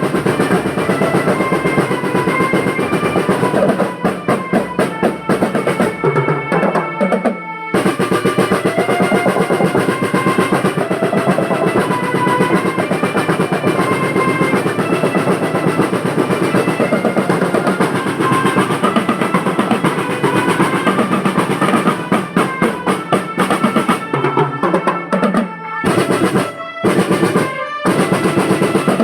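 School marching drum band playing: fast snare rolls and bass drum strokes under a melody of held notes. Twice the playing breaks into short, separated unison hits, about six seconds in and again near the end, before the full rhythm resumes.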